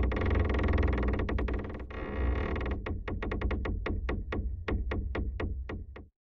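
Short electronic synthesizer music sting: sustained synth chords over heavy bass, then a run of quick repeated plucked notes, about four or five a second, that breaks off shortly before the end.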